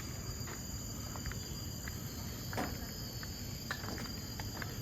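Tropical forest insects droning in several steady, high, even tones, with scattered short ticks and one louder knock about halfway through.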